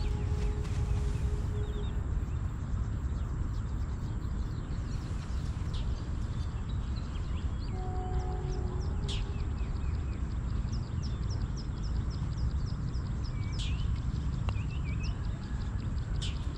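Wind rumbling steadily on the microphone while birds chirp throughout, with three sharp, falling, whistled calls spread across the stretch.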